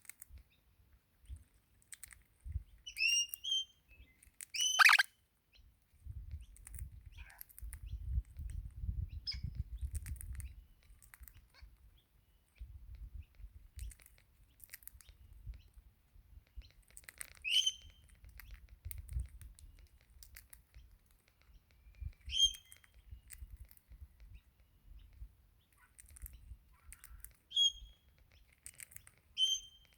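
Crimson rosella calling: short, sharp chirps every few seconds, the loudest about five seconds in. A low rumble runs under the calls through the middle stretch.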